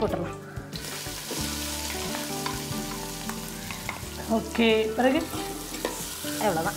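Chopped onions frying with curry leaves and whole spices in hot oil in a metal pot, a steady sizzle that starts sharply about a second in.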